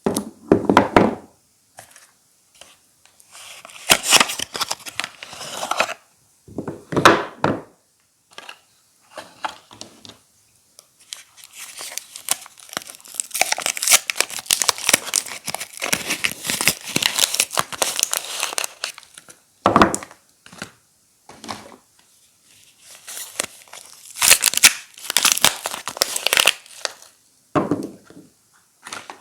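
Soap wrappers being torn open and crinkled by hand, in irregular bursts of tearing and rustling, with a long stretch of continuous crinkling in the middle.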